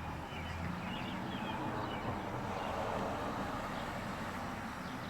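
Steady outdoor background noise like distant traffic, swelling slightly about three seconds in, with faint chirps of small birds above it.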